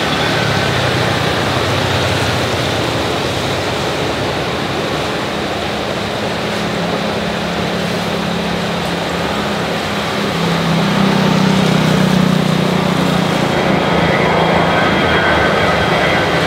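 Jet airliner engines running with a steady rush and a low drone that shifts in pitch, growing louder about ten seconds in.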